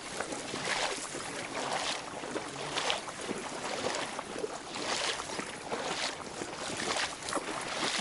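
A person wading through knee-deep water among horsetail stems, the water sloshing with each step, about one step a second.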